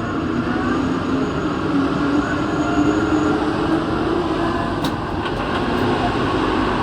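Santiago Metro NS-16 train heard from inside the car: a steady rumbling hum of the train, with a faint tone that rises slightly in pitch and a few light clicks about five seconds in.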